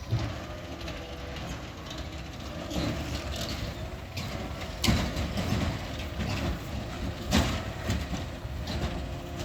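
Garbage truck running steadily, with two sharp knocks about five and seven and a half seconds in.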